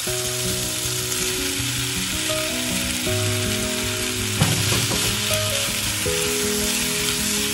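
Thinly sliced beef and onion sizzling in hot oil in a nonstick frying pan as they are stir-fried with chopsticks, with a short flurry of knocks from the stirring a little past halfway. Soft background music plays underneath.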